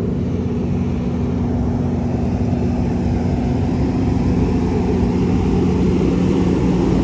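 Engine running steadily: a loud, low droning hum that grows slightly louder.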